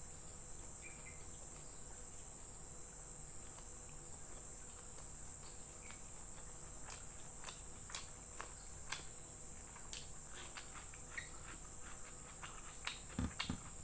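A person chewing a mouthful of fried noodles and rice, with wet lip smacks and mouth clicks scattered through the second half, over a steady high-pitched chirring in the background.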